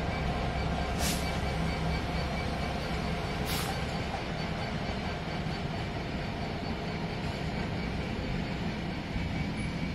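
DB Cargo Class 66 diesel locomotive, with its two-stroke EMD V12 engine running, hauling a freight train past with a steady low rumble of engine and wagons. Two sharp clicks about one and three and a half seconds in.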